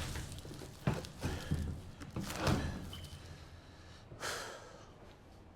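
A series of dull thuds and knocks, about five, spread irregularly over a few seconds.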